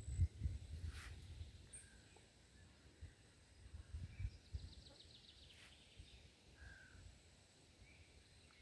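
Faint outdoor ambience with scattered short bird chirps and a quick trill about five seconds in; wind rumbles on the microphone at first and dies away.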